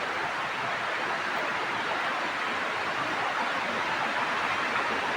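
Fast river water rushing in a steady, even roar, without break or change.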